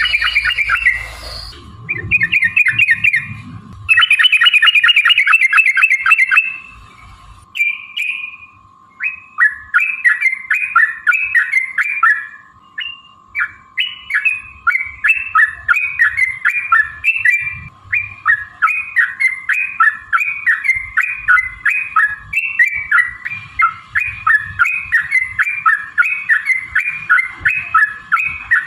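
Yellow-vented bulbul (trucukan) singing a long, fast chattering song: dense rapid runs for the first few seconds, then a long string of quick repeated bubbly notes, several a second. A faint steady tone runs underneath.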